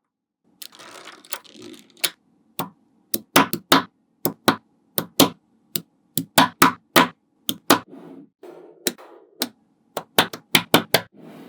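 Small magnetic balls snapping together one after another: sharp, irregular clicks, about two or three a second and some in quick pairs, with soft rolling and rattling of the balls between the snaps.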